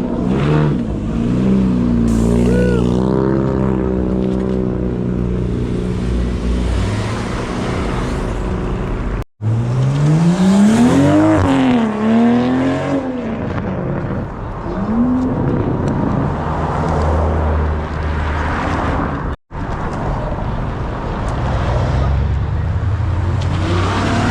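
Car engines revving, their pitch climbing and falling repeatedly over a steady engine drone. The sound breaks off sharply twice, about nine and nineteen seconds in.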